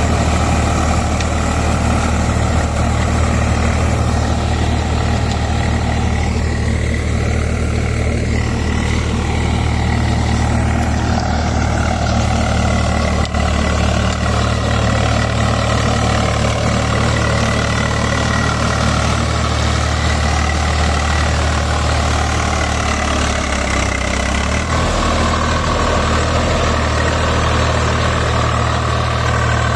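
Swaraj 744 XM tractor's three-cylinder diesel engine running steadily at a constant speed while ploughing, with a slight shift in its note near the end.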